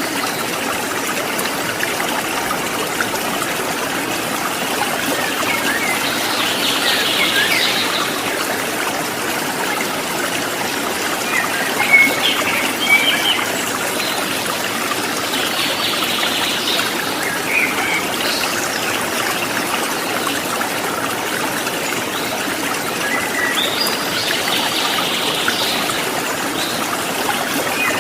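Water trickling and babbling steadily, like a small forest stream, with birds chirping and singing in short bursts every few seconds.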